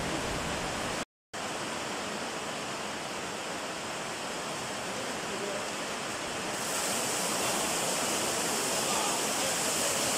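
Heavy rain pouring onto paving, a steady hiss of rainfall. The sound cuts out for a moment about a second in, and the hiss turns brighter and a little louder about two-thirds of the way through.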